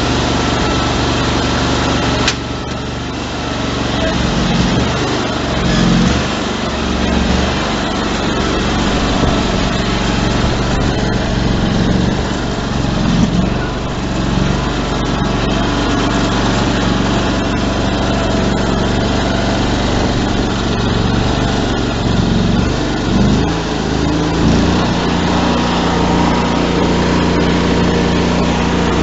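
Cub Cadet 3165 garden tractor engine running, with its speed rising and falling unevenly: it is surging, which new spark plugs and a new air filter have not cured. There is a sudden drop in level about two seconds in.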